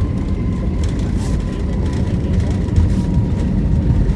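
Airliner cabin noise on the ground after landing: a steady low rumble with a faint steady whine that sinks slightly in pitch.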